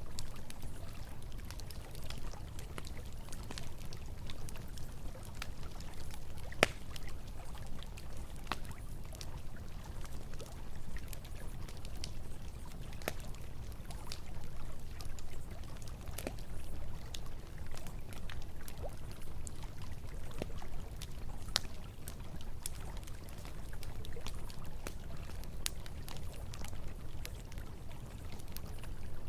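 Campfire crackling with scattered sharp pops, one louder pop about seven seconds in, over the steady sound of flowing river water.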